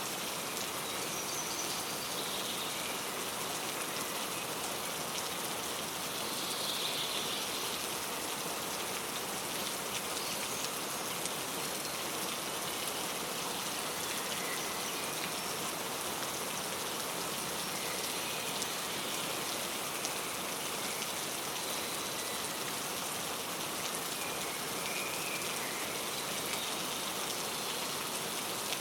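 Steady rain falling, with a few faint, scattered bird chirps over it.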